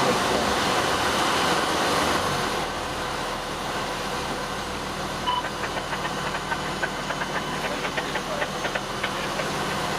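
Fire engine's engine running with steady road and cab noise, louder for the first couple of seconds and then settling. A short beep about five seconds in, and light clicks near the end.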